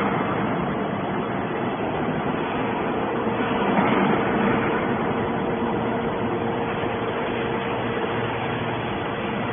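Hydraulic scrap metal baler running: a steady machine noise with a constant hum, swelling briefly about four seconds in.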